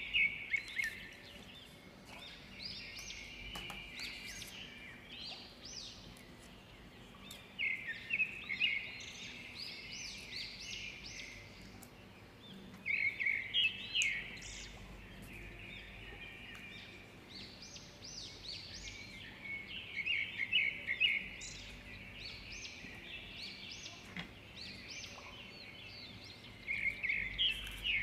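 Small birds chirping and singing in short bursts of song that come back every few seconds, over a low steady hum.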